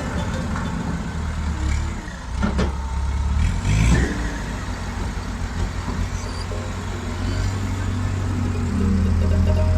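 Heavy diesel engine of farm machinery running steadily.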